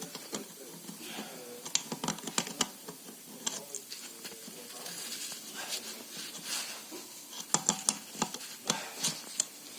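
Irregular small metallic clicks and taps as parts of a KNORR truck air disc brake caliper are handled and worked by hand, with a quick cluster of clicks near the end.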